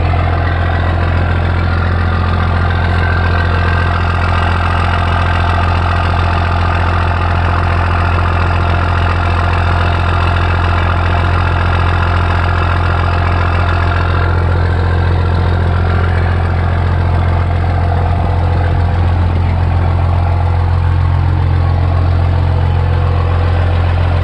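Cummins diesel engine idling steadily while still cold, shortly after a cold start at 21°F.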